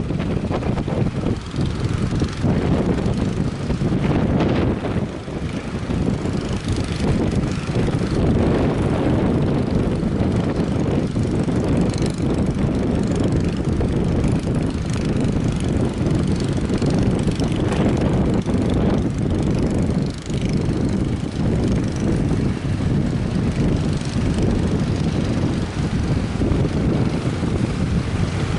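Strong gusty wind buffeting the microphone: a loud, steady low rumble that swells and dips without a break.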